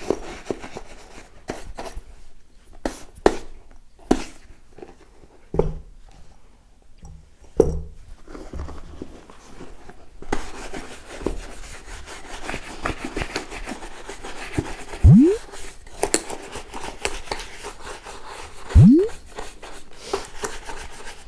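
Horsehair brush scrubbing over leather boots: a continuous scratchy rubbing that starts about halfway in, after scattered knocks and handling clicks. Two loud low thuds come during the brushing.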